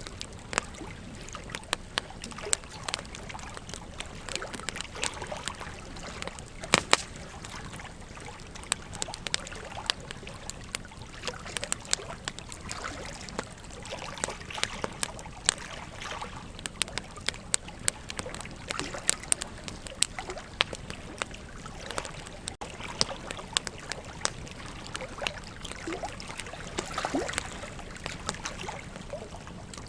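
Wood campfire crackling, with frequent irregular sharp pops, over the steady rush of a river. One especially loud pop comes about seven seconds in.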